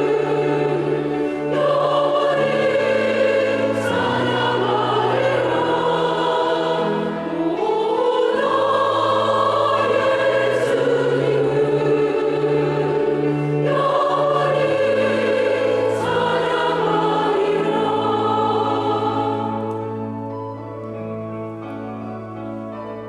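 Church choir singing an anthem in parts over instrumental accompaniment with sustained bass notes. The voices stop near the end, leaving the accompaniment playing more quietly.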